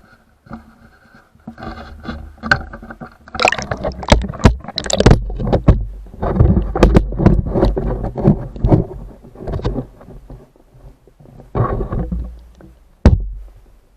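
Water sloshing around an underwater camera in a trout stream, with irregular muffled knocks and scrapes against the housing and a low rumble.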